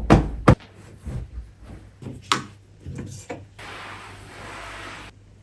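A few loud knocks and thumps, then scattered lighter taps and clicks of things being handled, and a steady hiss lasting about a second and a half near the end.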